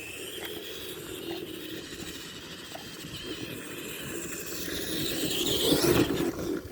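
Tamiya TXT-2 RC monster truck driving: its motor and drivetrain whine steadily, then swell louder with a rising pitch about two-thirds of the way in.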